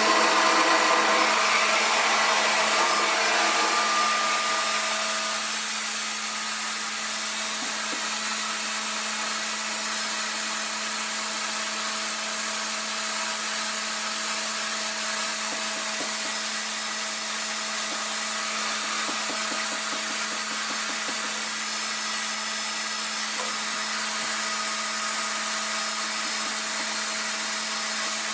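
RevAir reverse hair dryer running: a steady rushing drone with a hum, a little louder for the first five seconds or so and then even.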